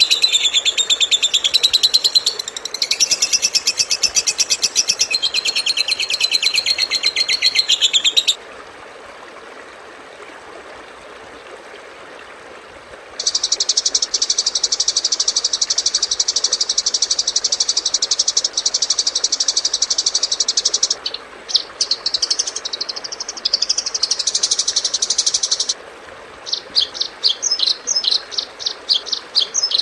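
Compilation of recorded songbird calls used as masteran, the training recordings played to songbirds. It opens with dense, rapid high trilling that cuts off abruptly about eight seconds in, leaving faint hiss. About five seconds later a long, steady buzzing trill starts, then gives way to varied chirping notes and quick repeated chirps near the end.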